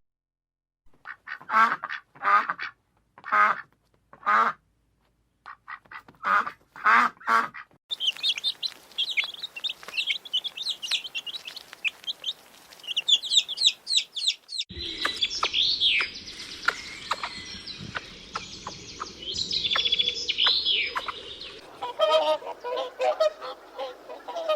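Birds calling in a run of separate short clips: first a string of short, harsh calls, then rapid high-pitched chirping over background noise, then more chirps and short calls near the end.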